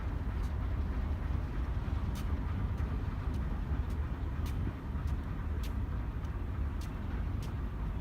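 Alco S-6 diesel switcher locomotive running, a steady low rumble, with faint sharp ticks about once or twice a second.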